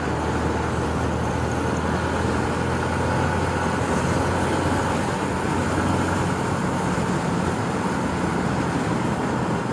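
Yamaha Sniper 150's single-cylinder four-stroke engine running at a steady cruise, mixed with wind rush and road noise.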